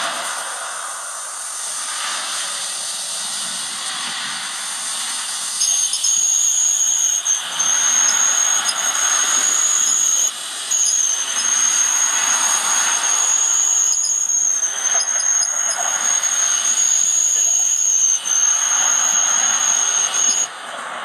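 Cordless drill spinning a hand-crank winch to haul up an antenna tower through pulleys: a steady high-pitched motor whine that starts about five seconds in and stops briefly three times, over a broad hiss.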